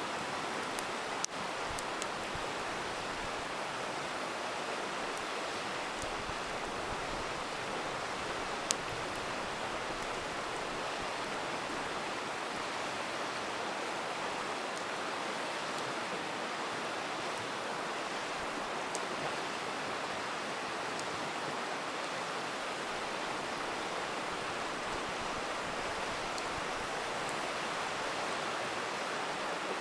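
Steady rushing of a river, with the occasional sharp pop and crackle of a campfire, the clearest pops about a second in and near nine seconds in.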